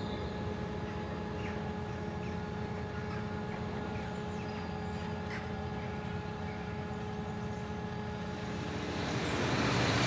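Forage harvester engine running steadily with a held hum. About nine seconds in, a louder engine sound builds as a tractor and trailer draws near.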